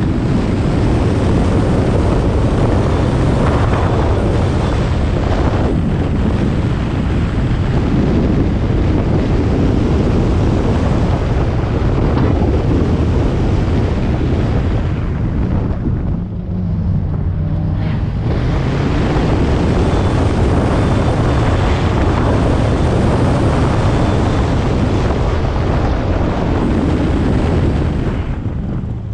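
Hyundai Veloster N's 2.0-litre turbocharged four-cylinder engine driven hard, largely buried under heavy wind buffeting on a microphone mounted outside the car. About two thirds of the way in the wind eases for a couple of seconds and the engine note comes through, rising and falling.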